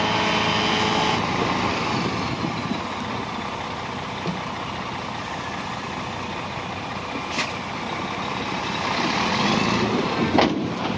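Heavy diesel earthmoving machinery running, a steady mechanical noise, with a sharp knock near the end.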